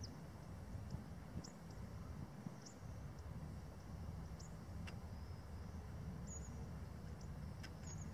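A small bird's short, high chirps, one every second or two, over a faint low wind rumble on the microphone.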